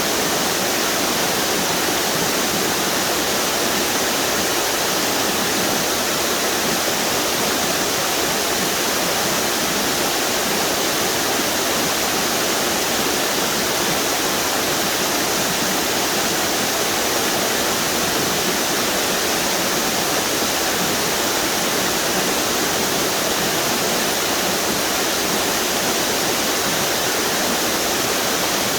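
A string of waterfalls on a river, with water pouring over the falls in a steady, unbroken rush.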